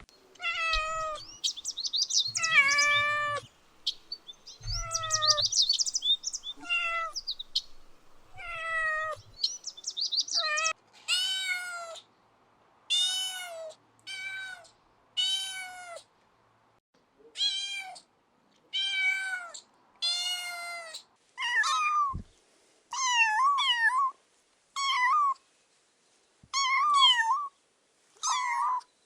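Kittens meowing over and over, high calls that fall in pitch at the end, about one a second. In the last several seconds the calls are shorter with a wavering pitch.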